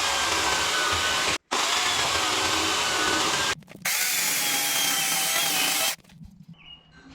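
Power saw cutting into pine wood: a loud, rough cutting noise with a faint wavering motor whine. It comes in three stretches with sudden breaks and stops abruptly about six seconds in.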